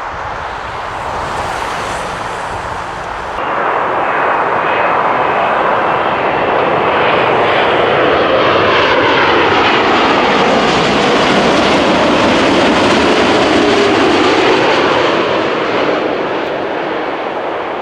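Arriving Boeing 787-9 airliner passing by: its jet engine noise swells to a loud steady roar, with a whine that falls in pitch as it passes, and then fades. Before it, about three and a half seconds of quieter jet noise from the previous arrival, cut off abruptly.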